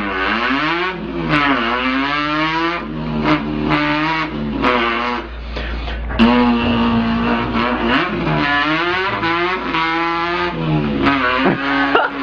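A man's voice imitating a car engine, revving up in pitch several times with steady held notes in between.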